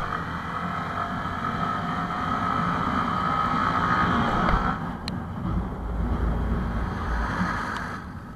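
Honda MSX SF minibike's engine running at steady revs, with wind noise on the microphone; the sound changes about five seconds in, with more low rumble.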